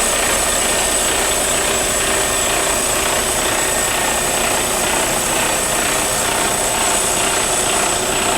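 Diesel engine of a Mercedes-Benz Arocs 3243 concrete mixer truck running steadily at idle.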